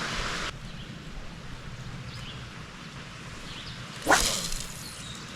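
Steady hiss of rain, then about four seconds in a single short swish of a fishing rod being cast.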